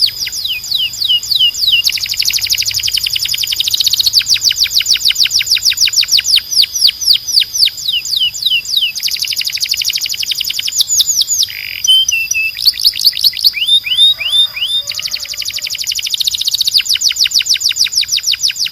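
Timbrado canary singing: long trilled rolls of fast repeated falling notes, the speed of the repeats changing from phrase to phrase, with a few slower, separate notes about two-thirds of the way through.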